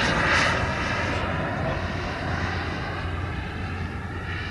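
Model jet aircraft's turbine engine running, a steady rushing hiss with a faint whine. It fades gradually as the sound recedes, its upper hiss dropping away about a second in.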